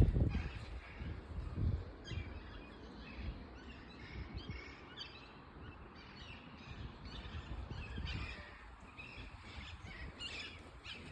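Songbirds chirping and singing outdoors, many short calls scattered throughout, over a low rumble that is strongest in the first second or so.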